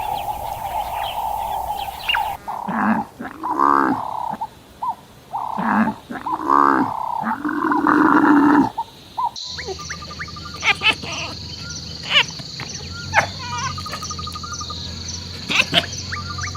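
Several short animal calls in a row, followed by a steady high-pitched insect-like buzz with scattered clicks and short trills.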